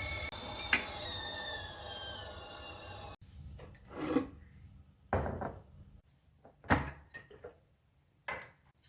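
Soft background music that stops about three seconds in, followed by five or six separate knocks and clatters of household objects being handled and set down.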